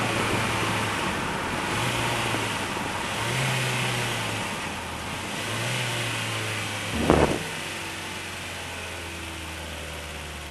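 PGO Cevennes roadster's engine heard from inside the cabin while driving, its note stepping up and down a few times and then settling lower and slowly quieter. There is one short, loud knock about seven seconds in.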